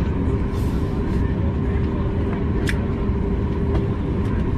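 Steady cabin noise of a Boeing 737 MAX 8-200 taxiing after landing, with its CFM LEAP-1B engines at low power and a low rumble under a faint steady hum. A few faint clicks sound through it.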